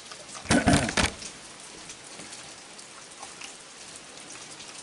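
Steady rain falling and pattering, with one short, loud voice-like sound about half a second in.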